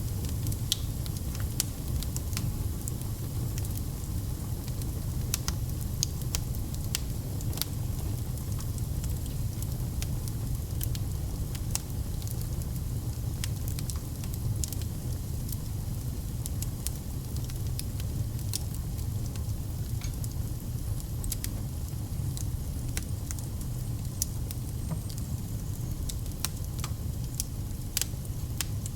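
Fire burning in a fireplace, crackling with many irregular sharp pops over a steady low rumble of the flames.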